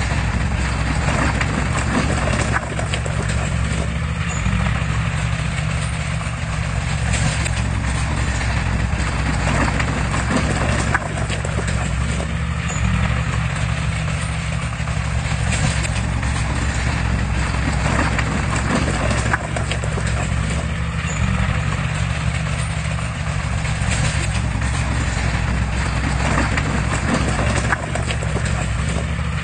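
Heavy construction machine's diesel engine running steadily, with scattered knocks and clanks over the engine sound.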